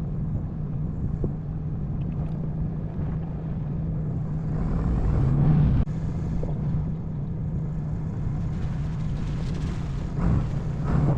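Pickup truck driving on a dirt road: a steady low engine hum over tyre and road rumble, swelling louder about halfway through.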